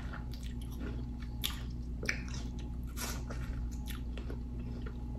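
Close-up mouth sounds of biting and chewing juicy watermelon: soft wet crunches and squishes at irregular intervals.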